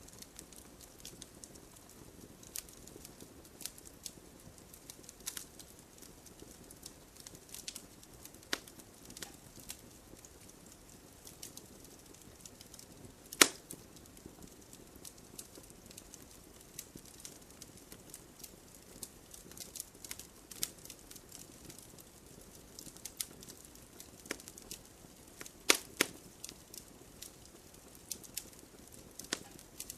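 Wood fire crackling: irregular sharp pops and ticks over a soft low hiss, with one loud pop just before halfway and two loud pops in quick succession near the end.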